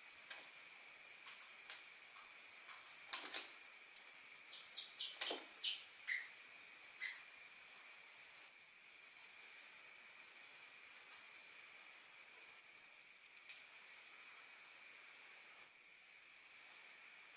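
Orange-headed thrush giving its thin, high 'ngecis' call: five falling whistles, each about a second long, roughly every three to four seconds. A steady high hum and a few faint clicks run underneath.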